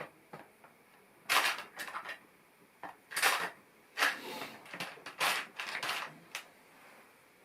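Loose plastic LEGO pieces being handled: several short bursts of clattering and clicking, with quiet gaps between.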